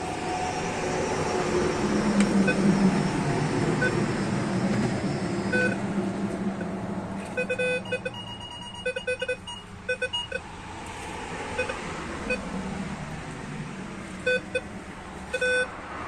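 Minelab Vanquish metal detector giving short repeated beeps in clusters as the coil is swept over targets, after a rough rushing noise in the first several seconds.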